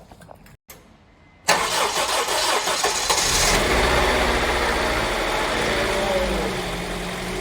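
Honda B20B four-cylinder engine, just swapped into the CR-V and getting fuel for the first time, firing up suddenly about a second and a half in and settling into a steady idle.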